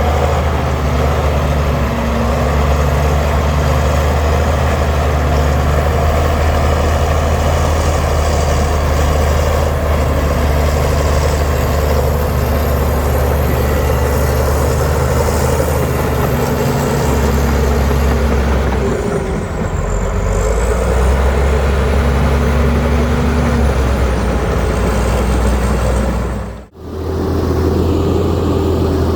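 Heavy diesel engine of earthmoving machinery running steadily under work. Near the end the sound cuts out for an instant and comes back with a different engine tone.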